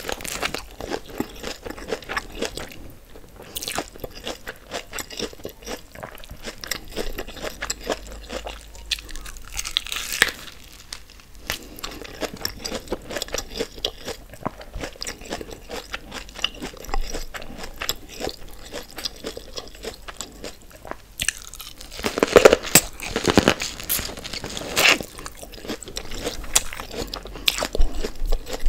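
Close-miked chewing and biting of sauce-coated boiled corn on the cob: a dense run of crackly, wet crunching, with louder bites about ten seconds in and again a little past twenty seconds.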